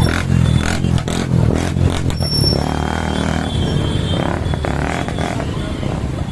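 Motorcycle engine running steadily as the bike rides along, with some rattling clatter over the low engine rumble.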